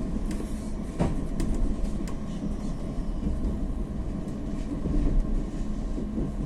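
Push-pull passenger train heard from inside a coach while under way: a steady rumble and hum of wheels running on the rails, with a few sharp clicks in the first couple of seconds.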